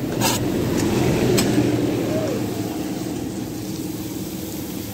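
Chopped vegetables are scraped off a plastic cutting board into hot oil in a pan, with a few clicks at the start. This sets off a loud sizzle that builds over the first second and a half, then slowly dies down.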